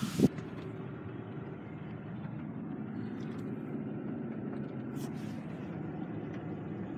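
Car door shutting with a thump right at the start, cutting off the outside hiss. Then the car's engine idles steadily as heard inside the cabin, with a couple of faint clicks about five seconds in.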